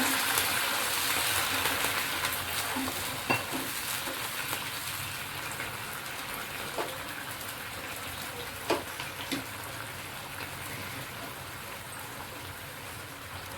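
Vegetables frying in a hot pan sizzle hard just after a splash of water is added, the hiss loudest at first and dying down steadily as the water cooks off. A spoon clicks against the pan a few times.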